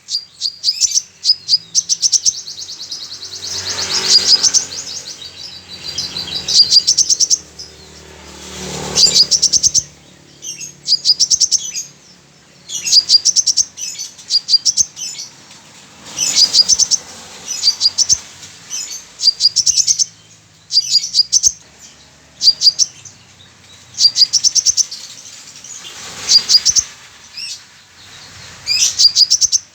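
A caged sunbird singing in repeated quick bursts of high, rapid chirping phrases every second or two. The song is filled with mimicked calls of a female brown-throated sunbird.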